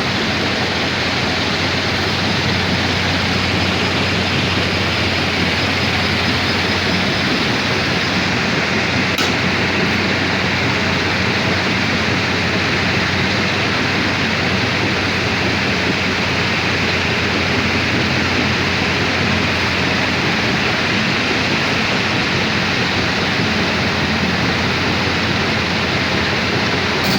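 Heavy earth-moving machine's diesel engine running steadily under a loud, even hiss, with a low hum and no change in speed.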